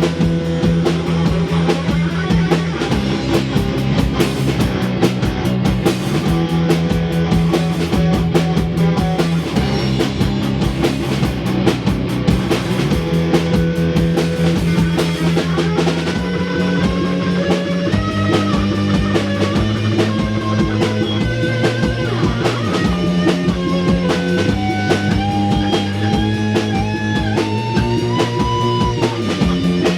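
A rock band playing live: drum kit, bass and guitars, with the bass note changing every few seconds. About halfway through, a lead guitar line with pitch bends comes in over the top.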